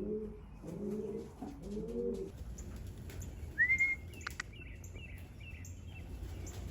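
Racing pigeons cooing, several low coos over the first two seconds. About three and a half seconds in comes a short high chirp, then a couple of sharp clicks and a few faint chirps.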